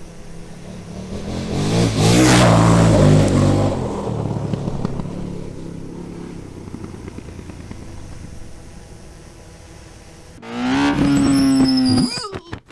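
Motorcycle engine passing close and loud about two seconds in, then fading away over several seconds. Near the end an engine revs up, holds, and cuts off sharply.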